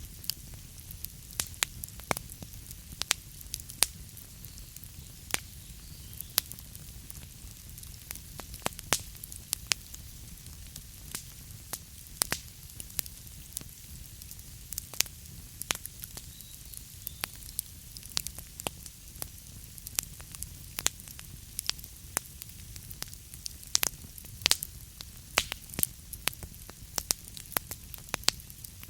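Wood fire burning in a fireplace: logs crackling and popping with many sharp, irregular snaps over a steady low rumble and soft hiss of the flames.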